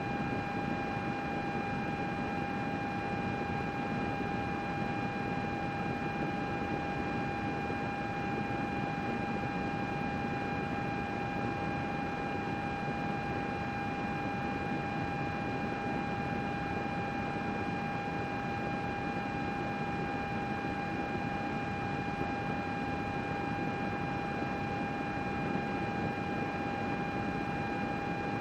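Computer running steadily: a constant whir of its cooling fans with a steady high-pitched whine over it.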